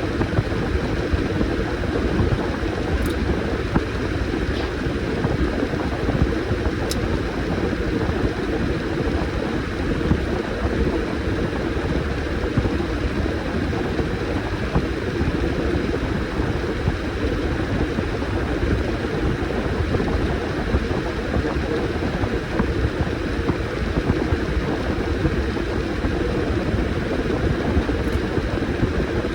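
Washing machine running a load of towels: a steady mechanical drone of the motor and drum, with a faint steady high whine and a few faint clicks.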